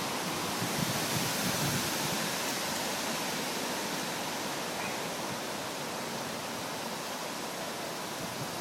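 Strong storm wind blowing steadily, a dense rushing noise that swells a little a second or two in and then eases slightly.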